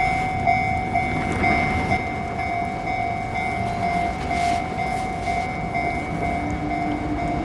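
Tram running on its rails: a steady rumble with a steady high whine held over it.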